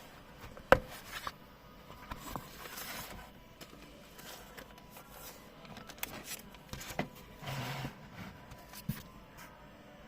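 Sunglasses and their packaging being handled: scattered sharp clicks and taps among brief rustling and scraping, the loudest a sharp click under a second in.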